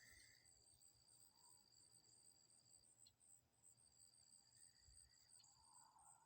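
Near silence with faint insects chirping: a high, evenly pulsing trill over a steady, slightly lower high-pitched buzz.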